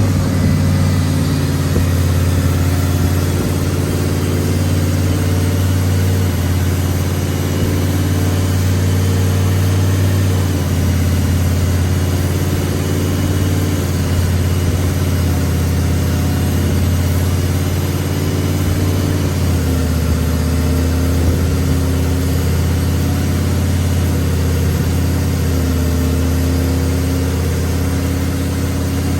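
Turbocharged Chevrolet Silverado V8 idling steadily, its idle pitch shifting slightly a couple of times.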